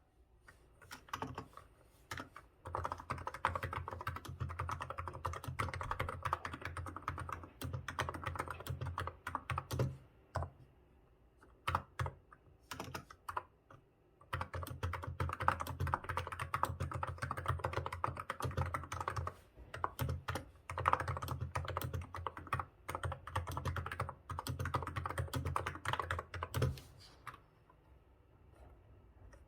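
Typing on a Hansung GK868B Tico wireless electrostatic capacitive keyboard with 35 g switches, in fast runs of keystrokes. The typing breaks off for a few seconds about ten seconds in, then resumes, and stops near the end.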